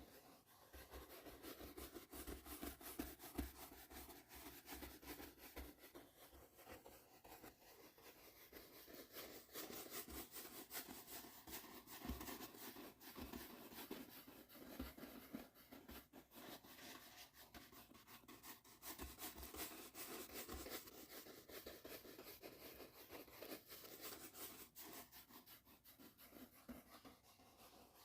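A soft brush stroked over and over close to the microphone, a quiet, continuous scratchy swishing with fine crackles, as in ASMR face-and-head brushing.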